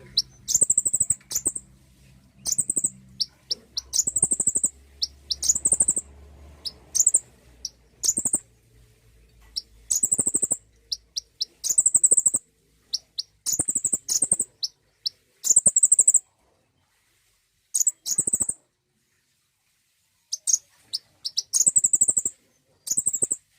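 Konin (kolibri ninja, a sunbird) singing: short, very high phrases of sharp ticks ending in a buzzy trill, repeated about every one to two seconds with brief pauses. This is a song recording used to prompt a caged konin to sing.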